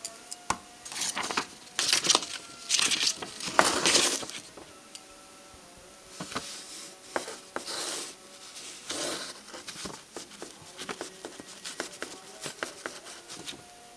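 Clicks, clatter and short scraping bursts of small hard parts and tools being handled, busiest in the first few seconds and sparser after.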